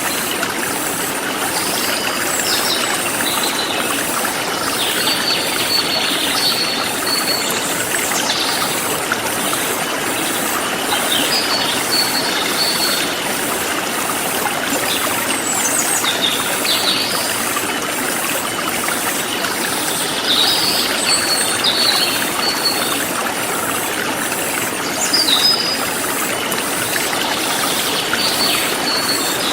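Forest stream flowing steadily, with birds chirping in short calls every few seconds and insects trilling in a fast, even pulse high above.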